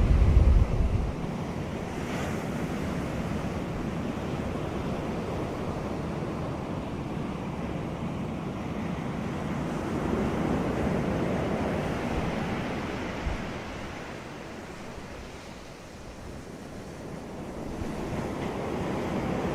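Sea waves washing onto a beach, the surf swelling and receding, with a low rumble of wind buffeting the microphone at the start.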